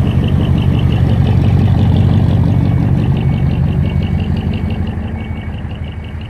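Heavy truck's diesel engine running loudly, swelling to a peak about two seconds in and fading over the last couple of seconds, with a rapid pulsing clatter. Faint reversing beeps start about halfway through, repeating at an even pace.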